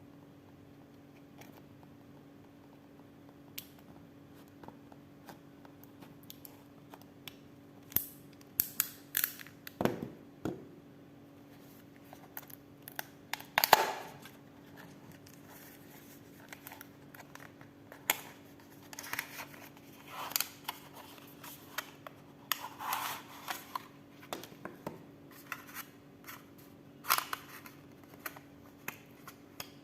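Packaging and a small device handled during an unboxing: scattered clicks, rustles and scrapes, with the loudest knock about halfway through, over a faint steady hum.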